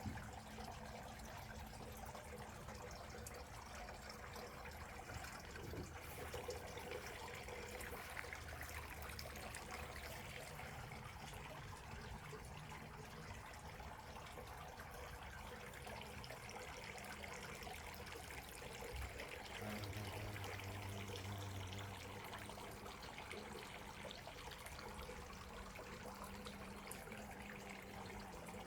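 Water trickling and pouring steadily, faint and continuous.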